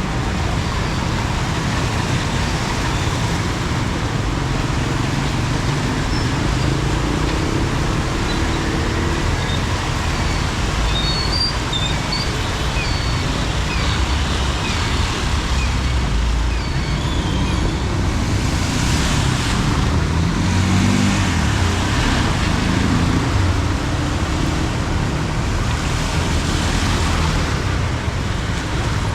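Road traffic on rain-soaked, flooded city streets: motorbike and car engines rumbling, with tyres hissing on the wet road. Two vehicles pass louder about two-thirds in and near the end, and a run of short high chirps sounds about halfway through.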